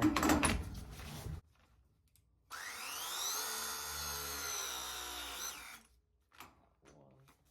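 Milwaukee M18 battery press tool with a 3/4-inch jaw pressing a copper press fitting: its motor spins up with a rising whine, runs for about three seconds and cuts off at the end of the press cycle.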